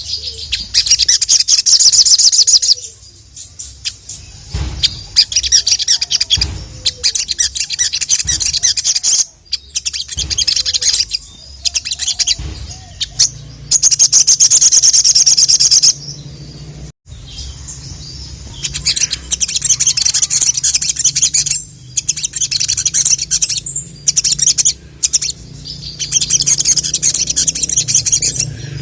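Sogok ontong (sogon) sunbird singing persistently: bursts of rapid, high-pitched chattering song lasting two to three seconds each, repeated after short pauses, with a steady low hum beneath.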